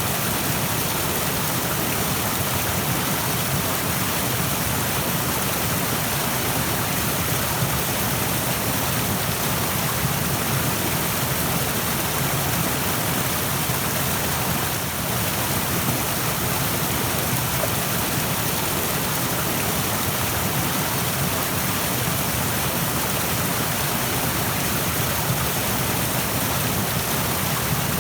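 Rushing stream: fast-flowing water making a steady, unbroken rush.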